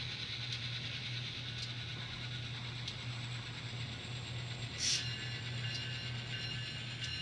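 Small electric motor and gears of an N scale model locomotive running along the track: a steady whir with a few faint ticks, and a short hissy burst about five seconds in.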